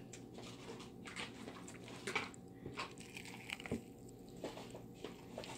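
Close-up eating of a crispy KFC fried chicken leg: faint, irregular crunches and smacks of biting and chewing, a little louder about two seconds in and again about three and a half seconds in.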